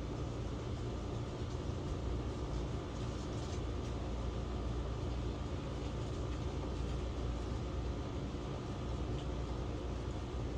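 Steady street traffic ambience: an even low rumble of passing vehicles with no distinct events.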